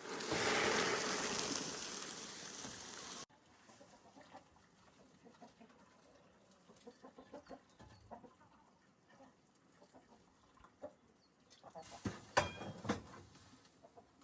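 A loud, even rushing noise for about three seconds that cuts off abruptly. Then chickens clucking softly, with a few sharper, louder clucks about twelve seconds in.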